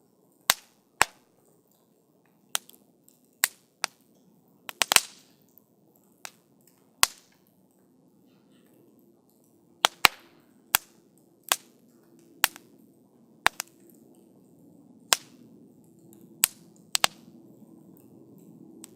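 Wood campfire crackling: irregular sharp pops and snaps from the burning wood, about one or two a second, over a faint low hiss of the flames.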